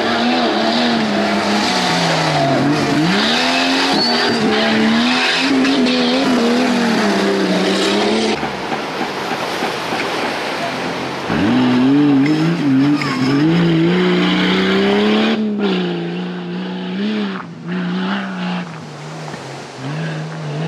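Off-road race vehicle engines revving hard, the pitch rising and falling with the throttle. The sound changes about eight seconds in, and a little over three seconds later another engine revs up sharply and runs on to the end.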